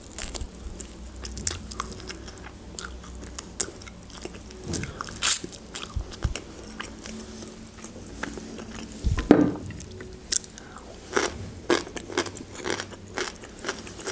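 Close-up eating sounds of grilled rotisserie chicken: biting and chewing with repeated crunches and wet mouth clicks, and one louder thump about nine seconds in.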